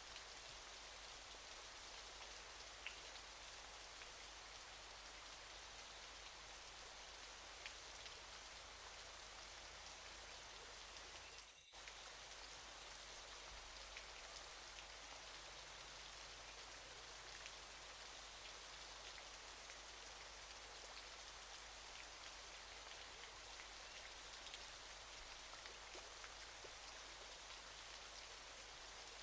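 Waterfall: a steady, faint rush of falling water with a light patter of drops, dipping briefly about twelve seconds in.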